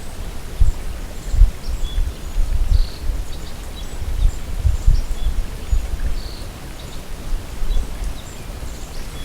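Wind gusting over an action camera's microphone in irregular low rumbles, with faint, scattered bird chirps.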